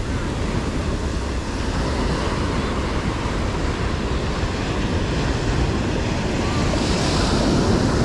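Ocean surf breaking and washing on a sandy beach, with wind rumbling on the microphone. A wave swells and washes up louder near the end.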